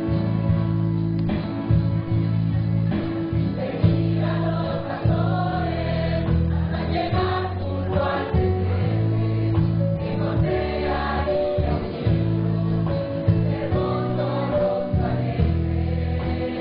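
Choir singing a Christmas song with instrumental accompaniment, over sustained low bass notes.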